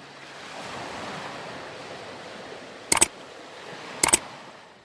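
Surf washing in a steady hiss that swells about a second in and fades out near the end, with two sharp double clicks about three and four seconds in.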